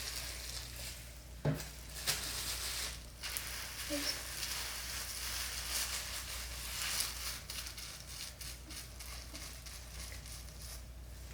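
Hands working hair dye cream through short hair, a steady crackling rustle with a sharp click about a second and a half in.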